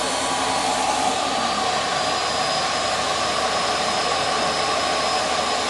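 Steady machine noise: a motor-driven machine running continuously with an even, loud whooshing hiss and a faint steady hum.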